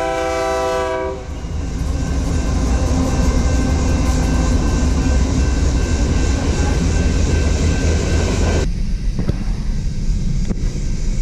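Train passing: a locomotive horn sounding a multi-note chord cuts off about a second in, followed by steady wheel-and-rail noise from the moving train. Near the end the higher rail noise drops away abruptly, leaving a low rumble.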